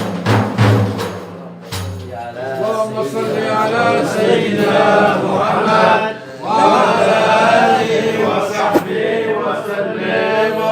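Men's voices chanting a religious praise song (madih), with low drum beats in the first second or so that then stop.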